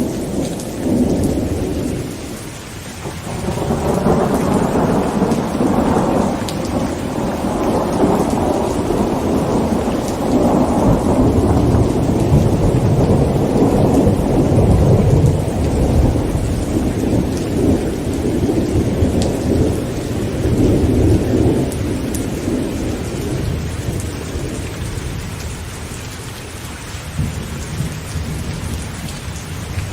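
Heavy rain falling on a tent, with a long rolling rumble of thunder that swells about three seconds in, is loudest around the middle and dies away over the last several seconds.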